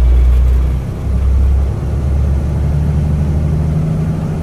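A truck's engine droning steadily, heard inside the cab with road noise while driving in traffic. The drone dips briefly about a second in.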